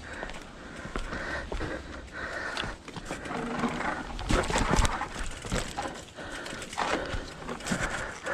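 Irregular footsteps and scuffs on a dirt trail, with knocks and rattles from a mountain bike being walked down a steep section.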